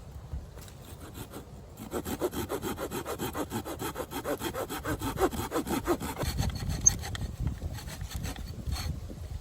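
Hand saw cutting through wood with quick, even back-and-forth strokes, starting about two seconds in.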